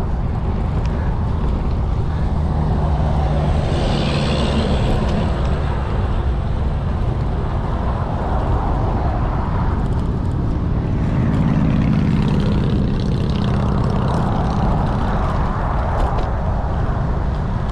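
Wind rushing over the microphone of a camera on a bicycle riding at speed: a steady low rumbling noise that swells slightly in places.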